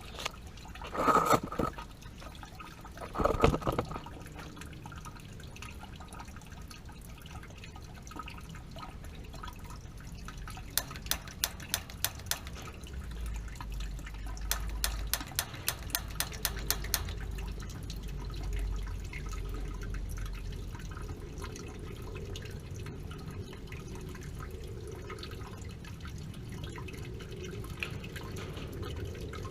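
Water dripping and trickling from a leaking gas water heater. There are two loud knocks near the start and two short runs of rapid clicks in the middle.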